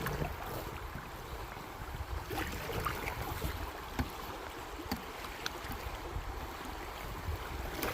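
River water rushing around a fiberglass canoe in a shallow, fast stretch, with a few sharp knocks.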